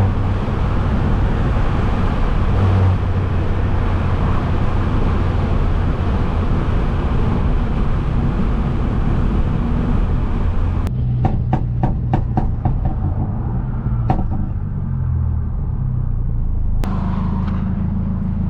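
Straight-piped, turbocharged Mercedes C250 driving, its engine and road noise heard from inside the car. About eleven seconds in, the sound changes suddenly to a lower, steadier engine hum with a quick run of sharp ticks, and near the end the fuller driving noise returns.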